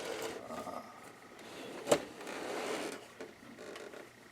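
Hard plastic sewing-machine parts being handled: scraping and rattling, with one sharp click about two seconds in.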